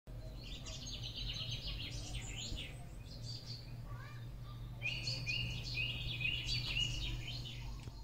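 Small birds chirping in quick series of short high notes, in two spells: one at the start and one from about five seconds in, over a steady low hum.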